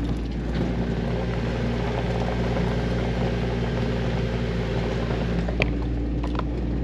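Jeep Wrangler driving along an off-road forest track: a steady engine hum under rumbling tyre and road noise, with a small knock about five and a half seconds in.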